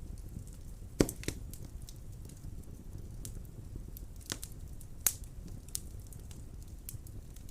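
Wood fire burning in a fireplace: a low steady rumble of flames with irregular sharp crackles and pops of the burning wood, the loudest pop about a second in.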